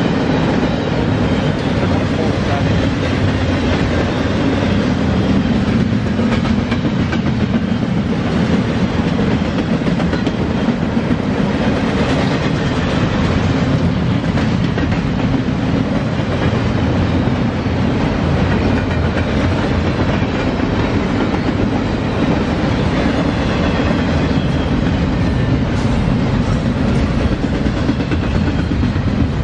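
Norfolk Southern double-stack intermodal freight train rolling past: a steady rumble of well-car wheels on the rails, with the clatter of the cars going by.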